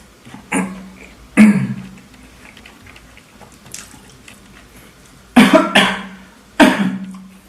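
A person coughing close to the microphone: two loud coughs near the start, then a burst of three more about five seconds in.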